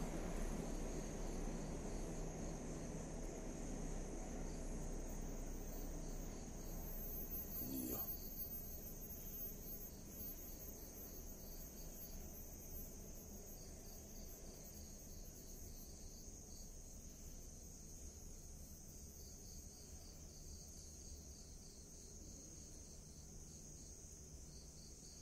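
Crickets chirping at night: a steady high trill with a faster pulsed chirp just below it. Under it runs a low rumbling noise that eases after a brief knock about eight seconds in.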